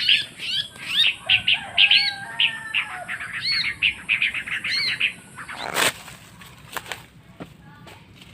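A small bird chirping in quick, short, repeated high calls. The calls stop after about five and a half seconds, followed by one sharp knock and a few faint clicks.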